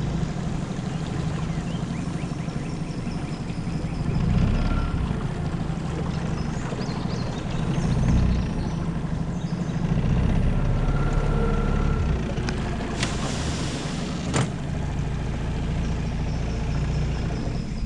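Tohatsu 9.8 four-stroke outboard running steadily under way, with water rushing along a small boat's hull; two sharp knocks come about thirteen and fourteen and a half seconds in.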